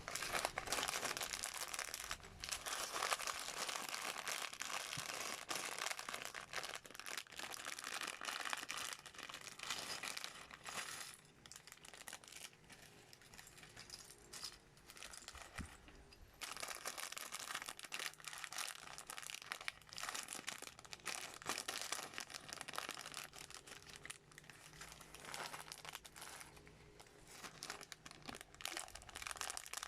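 Plastic crinkling and rustling with many fine clicks, like loose bricks being handled in plastic packaging. It eases off about eleven seconds in and picks up again a few seconds later.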